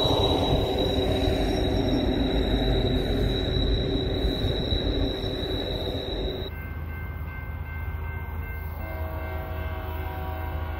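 A BNSF coal train rolls past with a steady, high-pitched wheel squeal over the rumble of the cars, and the sound slowly fades. After a cut about six and a half seconds in, a train horn sounds a chord from about nine seconds in.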